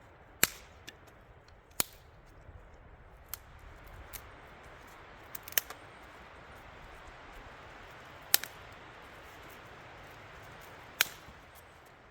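Campfire crackling with sharp, separate pops every second or few, over a steady hiss.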